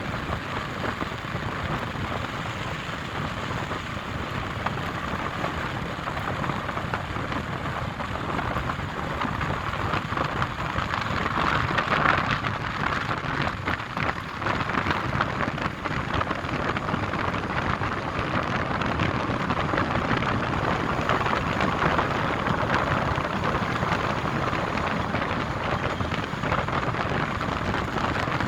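Steady hiss of wind-driven snow in a storm, swelling louder about twelve seconds in and again a little later.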